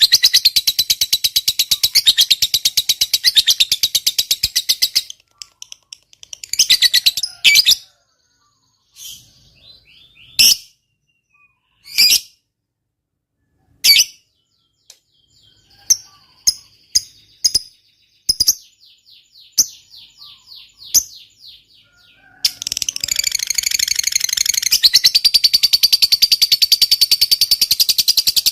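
Lovebird giving a long, fast, high chattering trill, the prized 'ngekek panjang' of a bird in full song. About five seconds in it breaks off into scattered single chirps and short rattles, then launches into another long chattering trill near the end.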